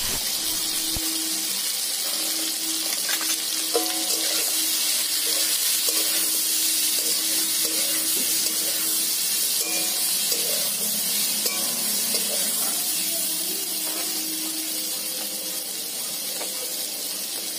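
Amla (Indian gooseberries) frying in hot mustard oil in an aluminium kadai, sizzling steadily, with a metal spatula scraping the pan now and then as they are stirred.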